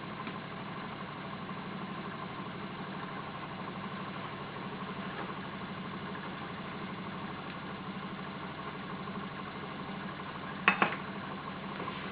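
Small walking-beam Stirling engine running steadily, its linkage giving a fast, even mechanical clatter. Two sharp clicks come close together near the end.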